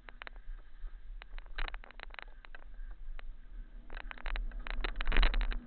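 Bike rattling and clattering over a rough, muddy trail: a stream of sharp clicks and knocks, thickest and loudest about four to five seconds in, over a steady low rumble of wind on the camera.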